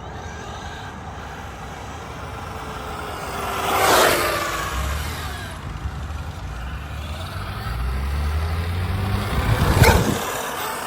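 Vehicles passing by: one sweeps past about four seconds in with a falling pitch, followed by a low engine rumble that builds to a second, louder pass near the end.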